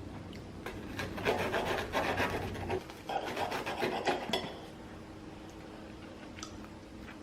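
Rough rasping and rubbing scrapes in a run of strokes lasting about three seconds, then fading to a faint steady hum.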